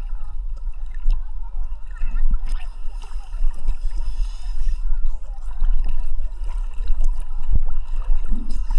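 Sea water sloshing and gurgling against a camera held at the surface while swimming, over a constant heavy low rumble of water buffeting the microphone, with scattered small splashes.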